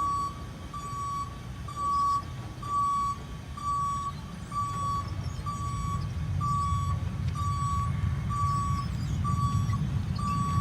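Truck reversing alarm beeping steadily, a single high tone repeated at even intervals, over a diesel engine running underneath. The engine gets louder in the second half, as the truck pulls away or backs under load.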